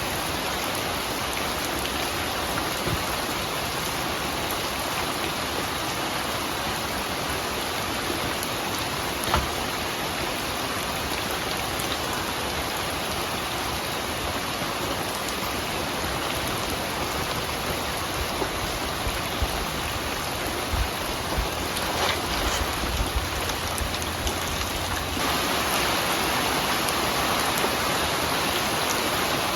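Steady rain falling, with occasional louder drops striking nearby surfaces; the rain grows slightly louder about 25 seconds in.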